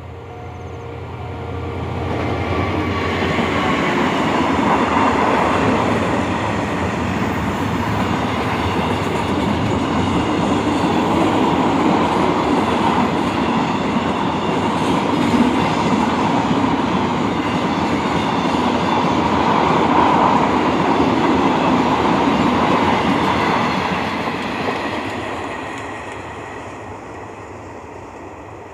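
A long freight train of crude-oil tank wagons rolling past with steady wheel clatter on the rails. It swells a couple of seconds in, stays loud for about twenty seconds and fades away near the end.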